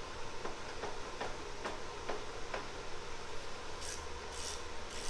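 Hand tools at work fitting a driveshaft under a car: a run of light metallic ticks, about two a second, then short raspy strokes at about the same pace near the end.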